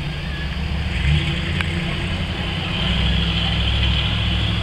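Hot rod coupe's engine rumbling low and steady as it moves along in slow traffic, a little louder about three seconds in, over the hiss of other traffic.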